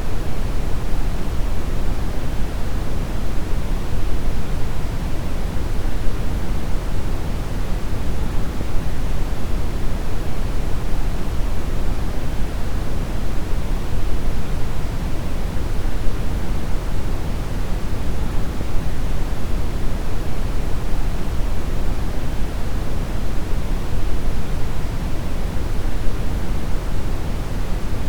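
Steady brown noise: an even, continuous hiss weighted heavily toward the low end, deep and rumbling, with no changes or events.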